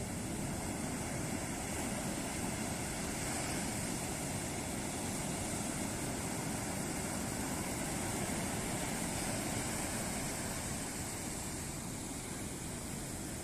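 Ocean surf: waves breaking and washing up a beach, a steady rushing noise that swells a little in the middle and eases slightly near the end.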